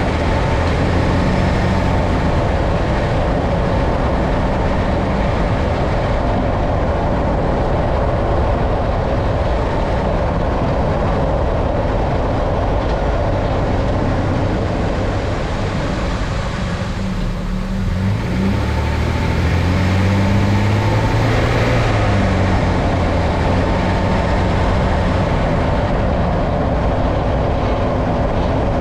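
A 2012 Nissan Frontier Pro-4X pickup driving, with steady road and engine noise. A little past halfway through, the engine note drops and then climbs again.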